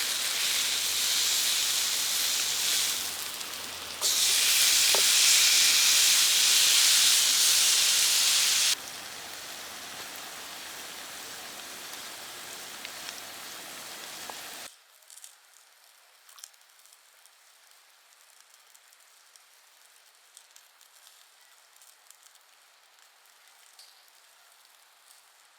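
Food sizzling in a hot pan, loud and steady, in stretches that change level abruptly. Past the middle it cuts to a faint background with scattered small crackles.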